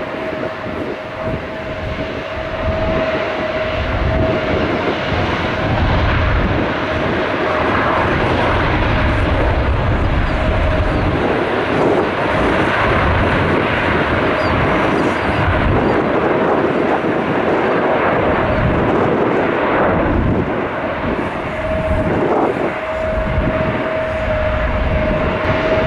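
Airbus A350's Rolls-Royce Trent XWB turbofans at takeoff thrust: a loud jet roar with a steady whine through it, growing louder over the first few seconds.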